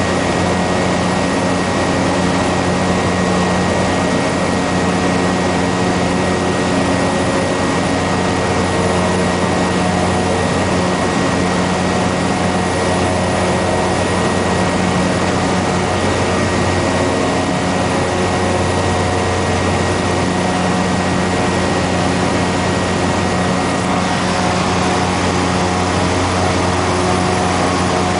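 Cessna Grand Caravan's Pratt & Whitney PT6A turboprop engine and propeller running at steady power, a constant loud drone. A thin high whine rides on it and stops near the end.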